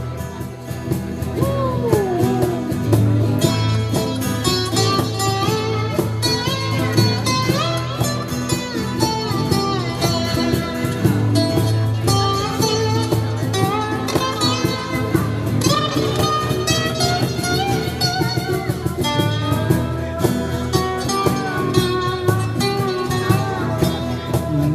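Live band playing an instrumental break, a guitar taking the lead with bending notes over a steady bass line and beat.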